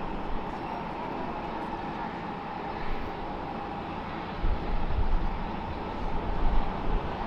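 Boeing 737-800 jet airliner on landing approach, its CFM56 engines giving a steady whine over a broad rush of noise; a low rumble grows stronger about halfway through.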